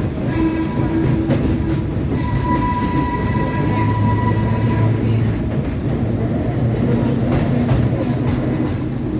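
Subway train running on the rails, a steady rumble with a high steady whine over it for the first several seconds and a few sharp rail clicks near the end.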